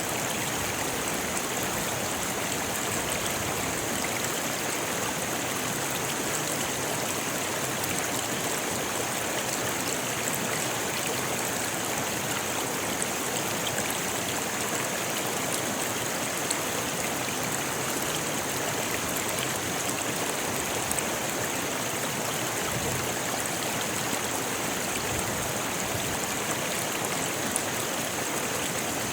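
A rocky river flowing, its water rushing steadily over stones in an even, unbroken hiss.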